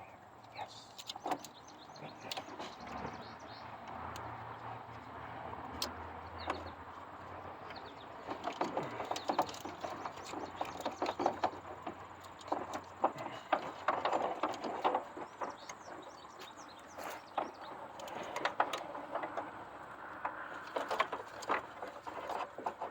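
Rustling, rubbing and irregular clicking of a new engine wiring harness and its plastic connectors being handled and pushed into place in an engine bay. A low hum comes in for a few seconds near the start.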